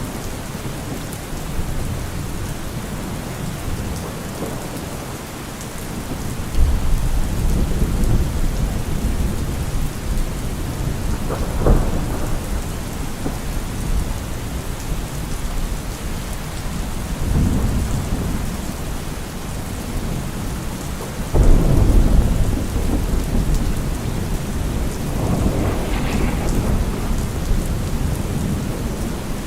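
Heavy rain drumming steadily on a car roof, with rolls of thunder rumbling in several times. The loudest thunder breaks in suddenly about two-thirds of the way through.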